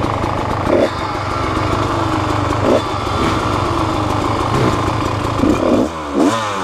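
A small engine running steadily, its pitch sagging slowly between short sharp revs about every two seconds, with two revs close together near the end.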